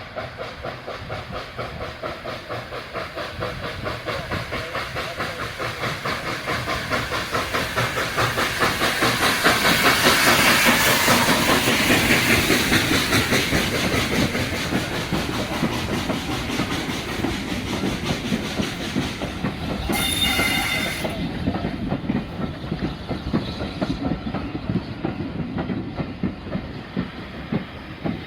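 A train running on rails, its wheels clicking in a fast, even rhythm that swells louder about a third of the way in and then slowly eases. About two-thirds of the way through, a brief high ringing tone lasting about a second sounds over it.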